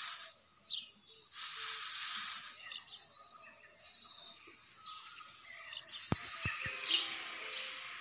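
Scattered short chirps of small birds, with a burst of hissing noise about a second and a half in and a few sharp clicks around six seconds in.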